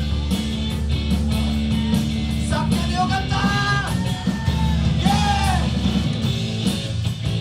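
Rock band playing live with electric guitars, bass and drums, and a singer's voice coming in about two and a half seconds in and again about five seconds in.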